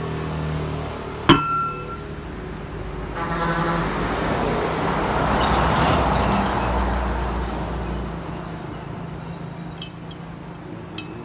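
A sharp metallic clink with a brief ring about a second in, as metal parts of the disassembled electric scooter hub motor are handled. It is followed by a broad rush of noise that swells and fades over several seconds, and two light clicks near the end.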